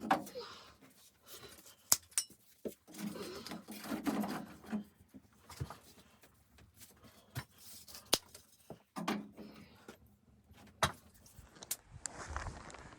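Scattered sharp clicks and knocks with bursts of rustling, irregular in rhythm, like gear being handled at close range.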